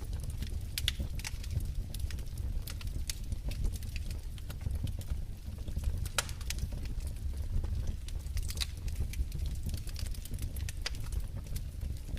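Wood fire crackling in a fireplace: irregular sharp pops and snaps over a low, steady rumble of the burning flames.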